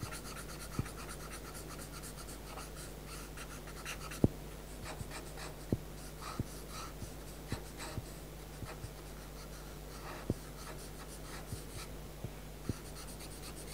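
Pastel pencil scratching across paper in short shading strokes, with a few sharper ticks of the pencil tip on the paper, over a faint steady low hum.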